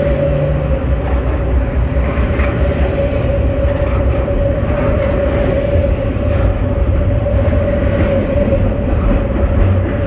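Intermodal freight train's container cars rolling past close by: a steady rumble of steel wheels on rail, with a constant whining tone above it.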